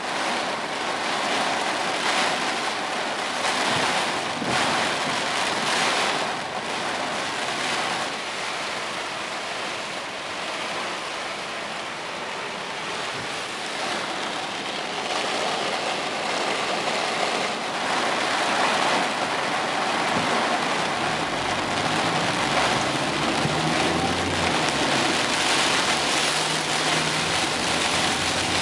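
Heavy typhoon rain and wind: a steady rushing hiss that swells and eases in gusts, with a low rumble joining about three quarters of the way through.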